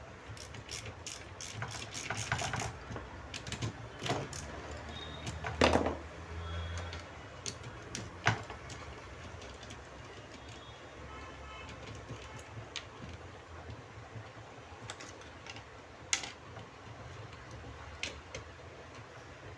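Irregular clicks, taps and a few louder knocks of hand tools on a car power-window regulator as its motor is being unbolted, busy in the first half and sparser later.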